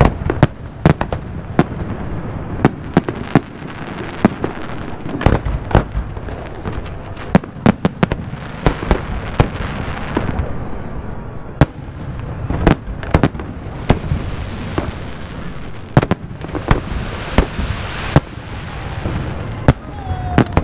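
Fireworks going off: many sharp bangs and cracks at irregular intervals, at times several a second, over a continuous noisy background.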